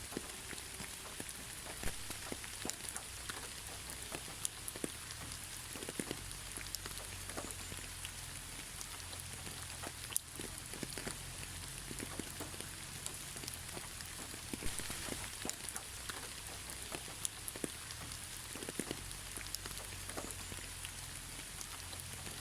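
Steady gentle rain falling, a continuous hiss with many scattered individual drops tapping close by, and a low rumble underneath.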